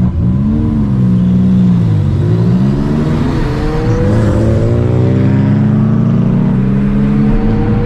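Car engine revving: a quick rise and fall in pitch, then a long, steady climb in pitch lasting several seconds.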